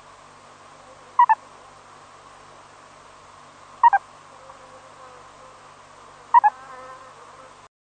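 A bird calling three times at even intervals of about two and a half seconds. Each call is a quick pair of notes, the second lower than the first, over a steady background hiss.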